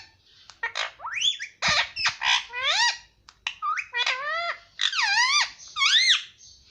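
Indian ringneck parakeet chirping: a rapid run of shrill calls that swoop down and up in pitch, in quick clusters with short gaps.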